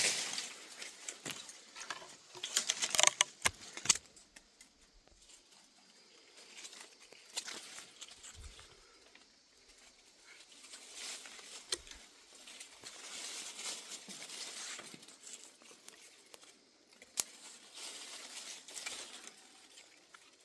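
Irregular rustling and crinkling with sharp clicks and cracks, busiest in the first four seconds, then softer rustles with an occasional click.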